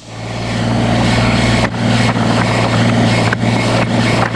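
Tractor engine running steadily, with a few brief knocks or clanks.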